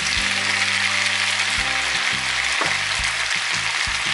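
Pork pieces, peppers and onion sizzling steadily in hot oil in a frying pan.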